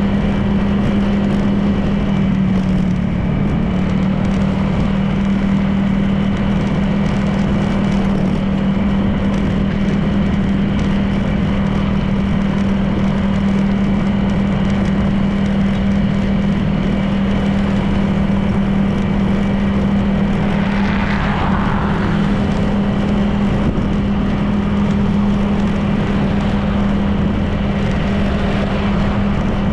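Honda PCX 160 scooter's single-cylinder four-stroke engine running at a steady cruising speed, an even hum under continuous wind and road noise. A brief extra rushing sound passes about two-thirds of the way in.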